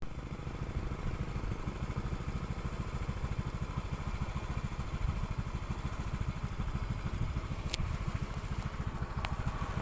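Motorcycle engine idling, a steady low even throbbing, with two sharp clicks in the last few seconds.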